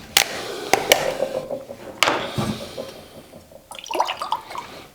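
Liquid ceramic glaze sloshing and dripping, with a few sharp clicks of ceramic ware being handled.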